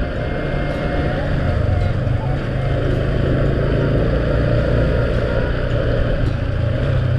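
A vehicle engine running steadily while under way, under a continuous rushing noise of wind and the rainy, wet road.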